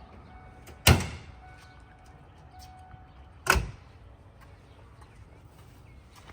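Car door of a 1992 Ford Mustang opened and shut: two loud clunks about two and a half seconds apart.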